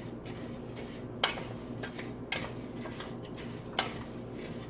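A utensil stirring rice as it browns in oil in a pan, clinking sharply against the pan three times over a steady background hum.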